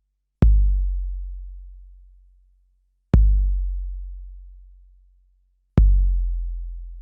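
Deep kick drum sample played back from an Akai MPC sampler, hit three times about two and a half seconds apart. Each hit is a sharp click followed by a low boom that fades away slowly.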